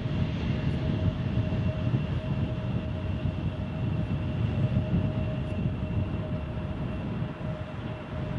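Jet airliner engines running steadily with a constant whine over a low rumble, with wind buffeting the microphone.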